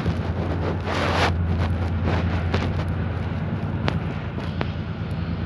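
Low, steady rumble of a train, with wind buffeting the microphone. Two sharp clicks come near the end.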